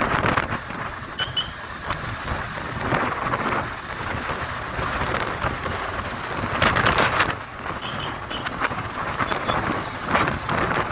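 Wind rushing and buffeting over the microphone of a moving motorcycle, swelling and easing in gusts, with the bike's running noise under it.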